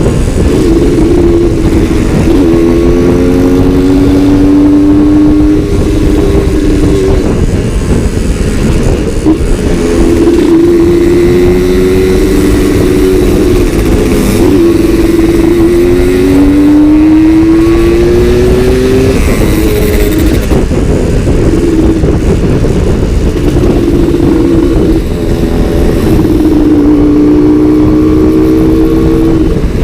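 Suzuki Satria two-stroke motorcycle engine being ridden, its pitch climbing under throttle and dropping back again and again as it shifts through the gears.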